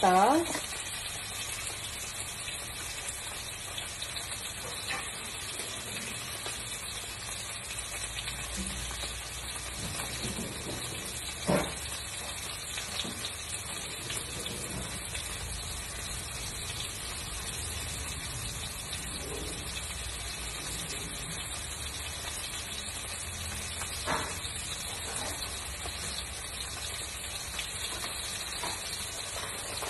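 Seasoned salmon frying in a pan on an induction hob: a steady sizzle. A sharp knock comes about a third of the way in and a softer one later.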